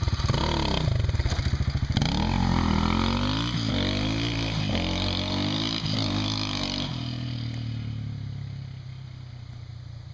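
Dirt bike engine, warm, revved in a series of throttle blips that rise and fall in pitch, then the engine sound fades steadily away over the last few seconds.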